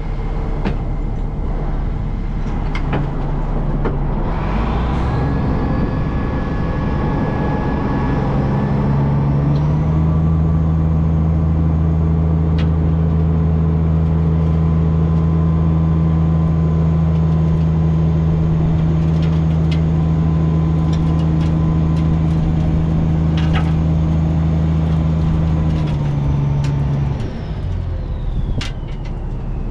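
Gehl asphalt paver's diesel engine running under load, settling into a steady higher speed about ten seconds in and dropping back near the end, with a thin high whine above it and occasional sharp knocks.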